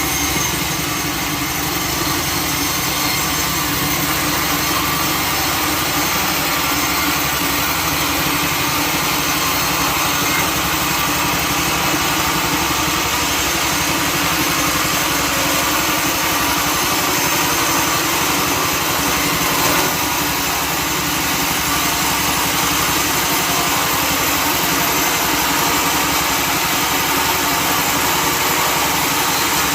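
A sawmill's engine and saw running steadily, with a constant mechanical drone that does not rise or fall.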